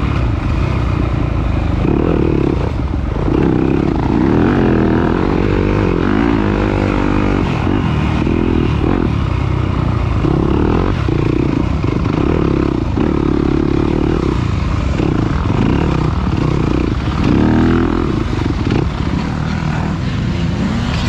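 Off-road dirt bike engine revving up and easing off over and over, the note rising and falling and dropping away between bursts, over a steady low rumble.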